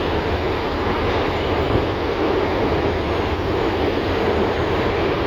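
LVS-2009 tram in motion, heard from inside the passenger cabin: a steady rumble of wheels on rails and running gear with a low hum.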